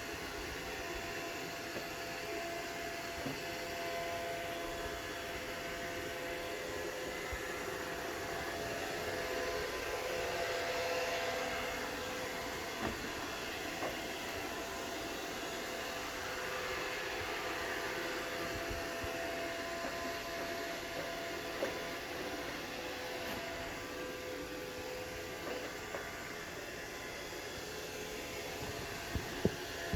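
Roomba robot vacuum running, a steady whirring motor with a few faint steady tones, while it searches for its charging dock. A few small knocks, near the middle and twice near the end.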